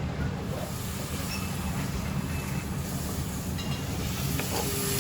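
Steady low rumble of a moving vehicle, with an even hiss above it.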